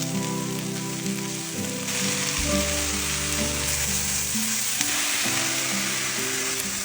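Food frying and sizzling in a hot pan, the hiss growing louder about two seconds in, over background music.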